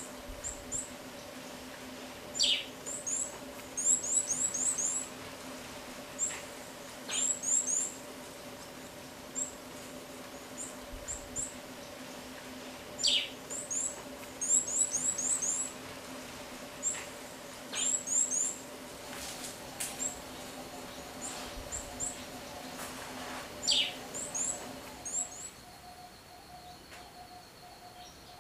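Small birds chirping: quick clusters of very high, thin notes, with a sharper call falling in pitch about every five seconds.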